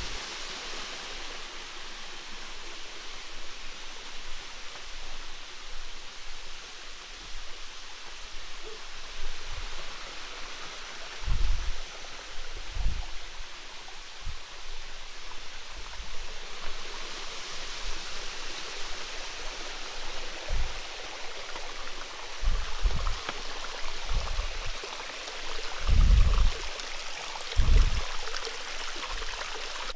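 Steady rush of flowing stream water, with scattered short low thumps now and then.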